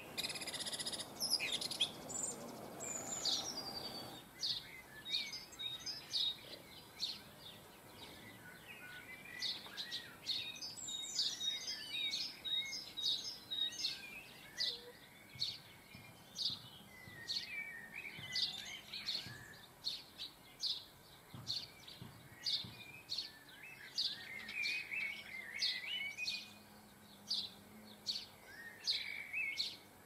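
Small garden birds calling: a run of short, high chirps repeated about one and a half times a second, with twittering mixed in. A rushing noise covers the first few seconds.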